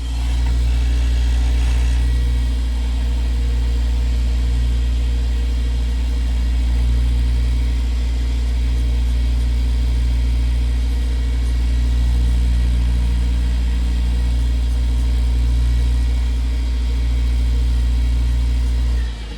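Electric motor of a woodturning lathe running at a steady speed with a deep, even hum. It is switched on at the start and cut off just before the end.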